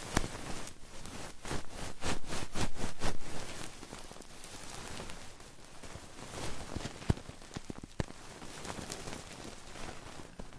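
Close-miked ASMR trigger sounds: crackling and scratching right at the microphone, with a quick run of rhythmic strokes, about four a second, between roughly one and a half and three seconds in.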